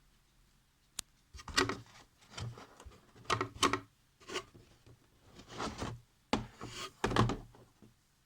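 A sharp click, then about six rubbing, scraping handling sounds in quick succession.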